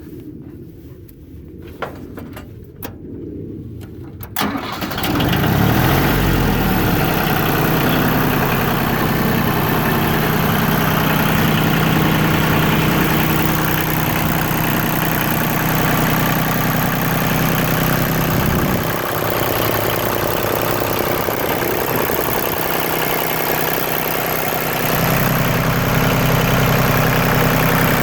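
Yanmar YM2010 compact tractor's three-cylinder diesel engine starting after a few clicks, catching about four and a half seconds in, then idling steadily. It runs a little louder near the end.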